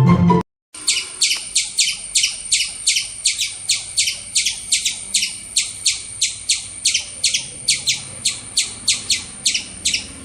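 A bird calling: a long, even run of short, high, sharp chirps at about four a second. It starts abruptly about half a second in.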